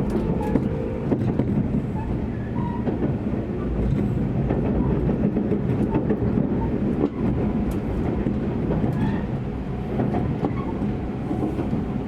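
A Tobu Railway limited express train running, heard from inside the passenger car: a steady rumble with scattered clicks of the wheels passing over rail joints.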